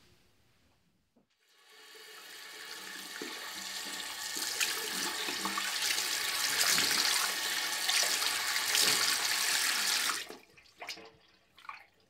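Water running from a tap into a sink, growing louder over several seconds and then cut off suddenly about ten seconds in, followed by a few small clicks and knocks. It is the sound of hands being washed again and again as an obsessive-compulsive ritual.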